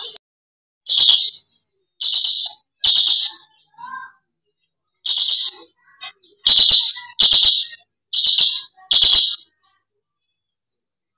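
Lory calls: about nine short, harsh screeches at irregular intervals over roughly nine seconds, then silence.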